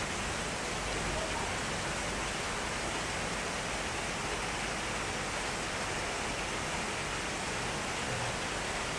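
Heavy downpour: rain pouring onto a paved street in a steady, even hiss.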